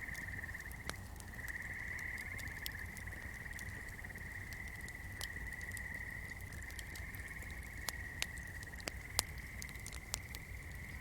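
Swamp ambience: a steady, high trilling chorus of frogs, with scattered sharp crackles from a fire or candle flame, a few louder pops near the end.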